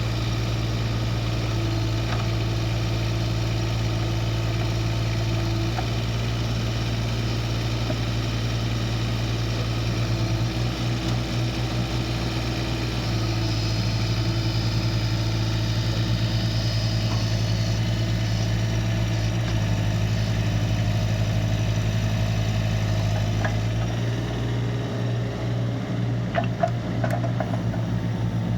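Kubota U17-3 mini excavator's three-cylinder diesel engine running steadily, its note shifting a few times, with a few light knocks near the end.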